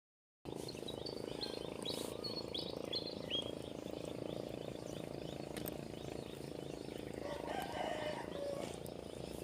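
Frogs croaking in a steady chorus, with short, high bird chirps a second or two in. The sound starts after a split-second cut of silence.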